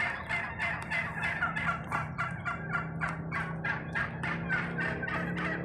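Wild turkeys gobbling in a rapid, continuous run of short repeated calls over a steady low hum. The speaker takes the gobbling as the lead turkeys alerting the rest of the flock.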